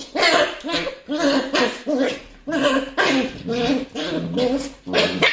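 A dog making a rapid run of short, throaty vocal sounds, about two a second.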